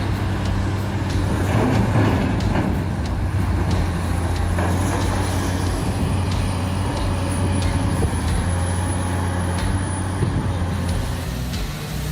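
A heavy machine's diesel engine running steadily with a low, even hum, with a few light knocks over it.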